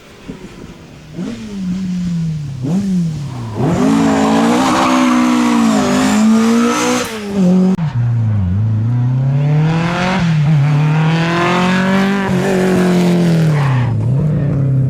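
Rally car engine revving hard, the pitch climbing and dropping several times as the driver goes on and off the throttle, with a hiss of tyre noise over the loudest stretches. It builds up about a second in and is loud from about four seconds on.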